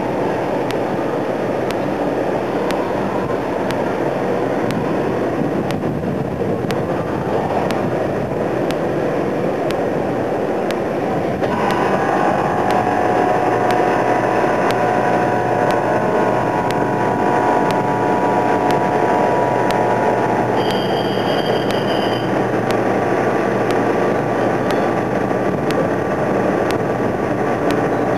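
Steady engine drone and rumble; about a third of the way in a droning engine with several steady pitches comes in and holds, and a brief high tone sounds about two-thirds in.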